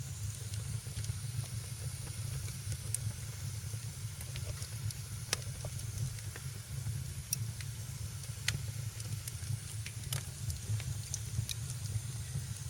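Wood fire crackling in a fireplace: irregular sharp pops and snaps over a steady low rumble and a soft hiss.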